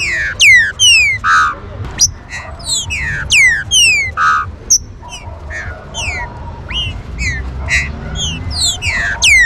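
Green-winged saltators calling: a rapid, overlapping string of sharp whistled notes that sweep down in pitch, mixed with short buzzy notes, several a second, over a steady low rumble.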